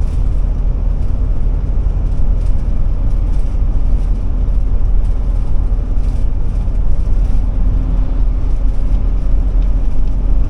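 Inside the cab of a 2007 Forester Class C motorhome on a Ford E-450 chassis driving on the highway: a steady, loud low rumble of engine and road noise. A faint steady hum joins about seven seconds in.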